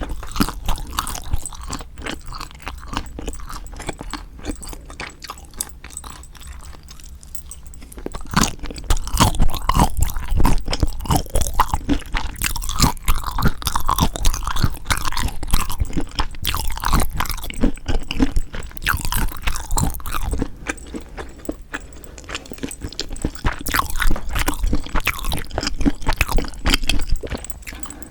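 Close-miked chewing of spicy marinated raw shrimp (yangnyeom saeujang), made of dense runs of small clicks and mouth noises. It gets louder and busier from about eight seconds in, eases off briefly a little past the middle, then picks up again.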